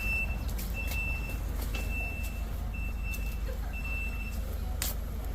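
A vehicle's reversing alarm beeping about once a second, five beeps at a single high pitch, over the steady low rumble of an idling engine. The beeps stop about four and a half seconds in.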